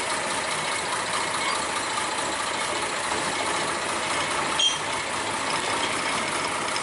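Small 28 horsepower F.C. Hibberd 'Planet' narrow-gauge diesel shunting locomotive running steadily with a mechanical rattle while shunting, and a single sharp clank about four and a half seconds in.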